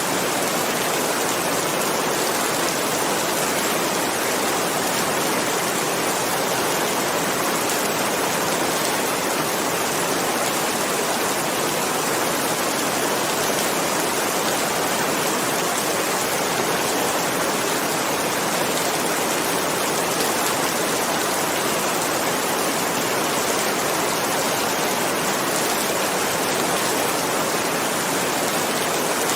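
Steady heavy rain: an even, unbroken hiss with no thunderclaps.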